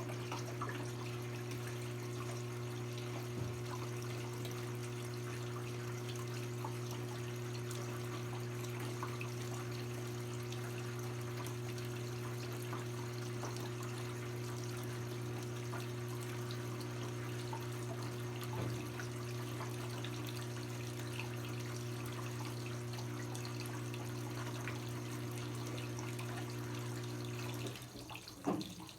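Brastemp 17 kg top-loading washing machine with water running through it and a steady electric hum. The hum and water noise cut off about a second before the end.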